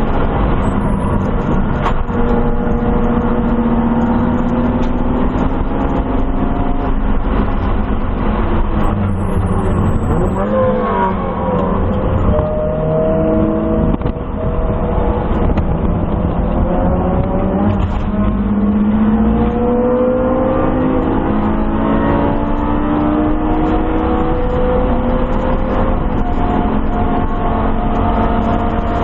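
1997 BMW M3's inline-six engine under track driving, heard from inside the cabin. Its pitch falls as the car slows hard for a corner over the first ten seconds or so. Then it climbs again in several rising sweeps with a drop at each upshift as the car accelerates hard.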